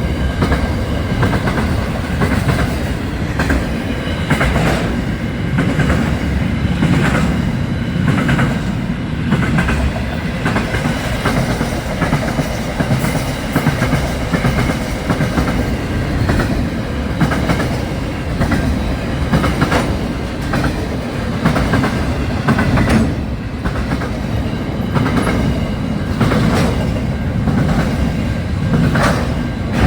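Train running on the rails: a steady low rumble with repeated clicks and clacks of wheels over rail joints.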